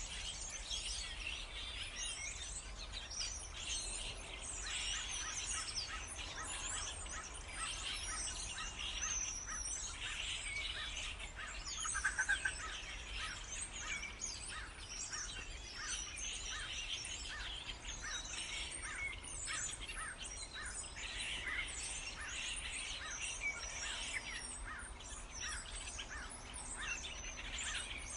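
A flock of starlings calling together: a dense, continuous chatter of whistles, clicks and sliding squeaks, with one louder call about twelve seconds in.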